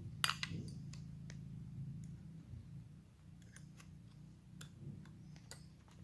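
Scattered small clicks and clinks of chainsaw parts and hand tools being handled, the loudest about a quarter second in, over a steady low hum.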